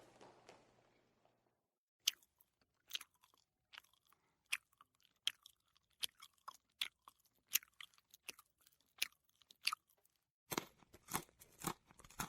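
A person chewing crunchy food: a run of separate crisp crunches, roughly one every half second to second, coming faster and closer together near the end.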